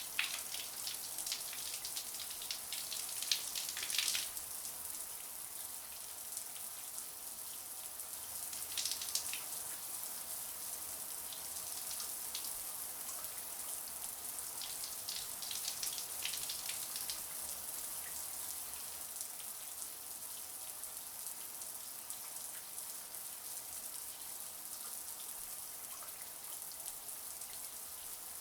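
Shower running: a steady high hiss of water spray, with louder, irregular spattering now and then.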